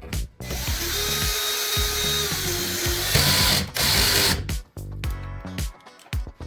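Power drill/driver running for about four seconds, its motor tone dropping slightly about halfway through and the sound growing louder near the end, over background music with a steady beat.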